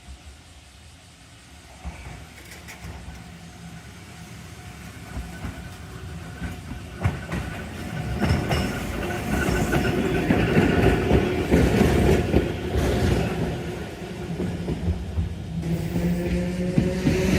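A Randen Kitano Line tram approaching and running by, growing steadily louder, its wheels clattering over the rails, with a rising whine near the end.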